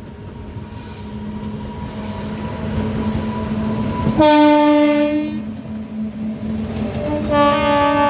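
A passenger train hauled by a WAP-7 electric locomotive approaches, its rumble growing louder. The locomotive's horn sounds twice: a short blast about four seconds in, and a longer one starting near the end.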